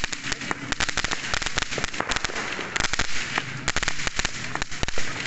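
New Year's fireworks and firecrackers going off all around: a dense, irregular barrage of sharp cracks and pops, with a louder bang near the end.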